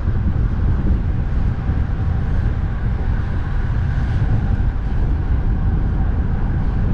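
Steady, loud wind buffeting the microphone of a camera on a moving bicycle, mixed with road-traffic rumble.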